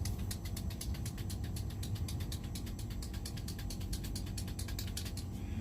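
Ratchet wrench clicking rapidly and evenly, about seven or eight clicks a second, stopping shortly before the end, over a steady low hum.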